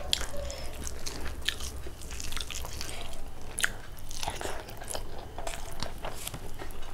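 Close-miked eating: a person chewing and biting a mouthful of rice and spicy egg curry, with many short, irregular wet mouth clicks.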